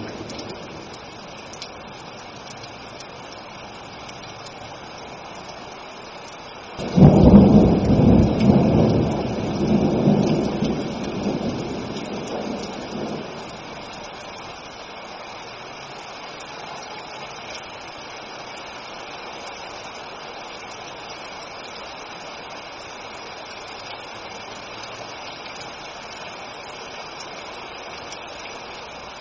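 Steady rain falling, with a sudden clap of thunder about seven seconds in that rumbles on in several surges and dies away over the next six seconds.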